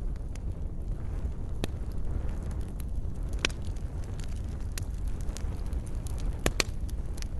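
Wood fire in a fireplace crackling: a steady low rumble of flames with scattered sharp pops, the loudest a close pair near the end.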